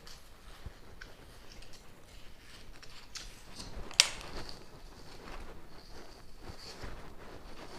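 Faint scratching and handling noise as fire-proof cotton lining is dug out at the holes in the side of a tin, with one sharp click about four seconds in.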